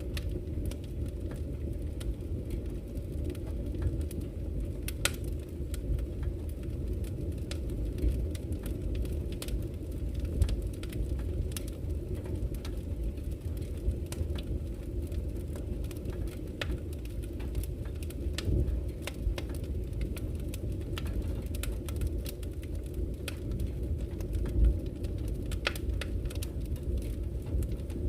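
Campfire crackling, with frequent sharp irregular pops and snaps, over a steady low rush of flowing river water.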